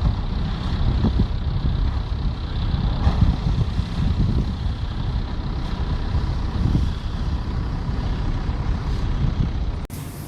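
The nuclear icebreaker Taimyr forcing its way through ice: a continuous low rumble with irregular grinding and crunching. It cuts off abruptly near the end.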